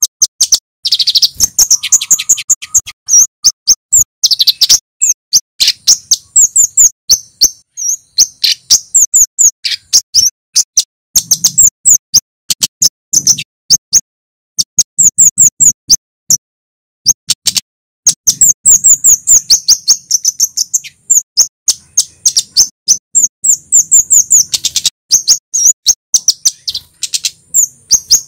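Male kemade, a flowerpecker, singing loudly and without a break: rapid runs of sharp, high-pitched chirps and 'cit' notes, pausing only briefly about two-thirds of the way through.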